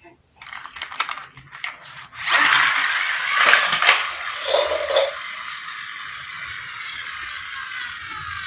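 Wheels of a toy car rattling and whirring: a few clicks, then about two seconds in a loud, steady rattling whir that carries on, its pitch slowly falling.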